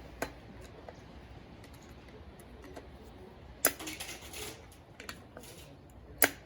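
Screwdriver prying and scraping at the wheel bearing's snap ring in the hub knuckle: light metal clicks throughout, with sharp clinks right at the start, just past halfway followed by about a second of rattling, and near the end.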